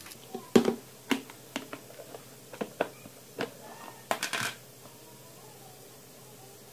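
A string of sharp clicks and knocks from objects being handled, about a dozen over four seconds with the loudest near the start, then a faint steady hum.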